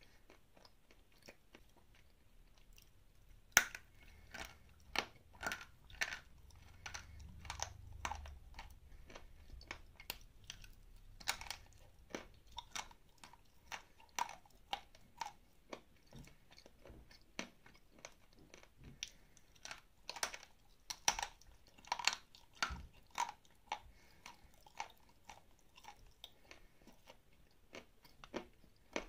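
Dry edible clay chunks being bitten and crunched between the teeth, then chewed, giving many sharp crackles in irregular clusters. The crackling starts a few seconds in.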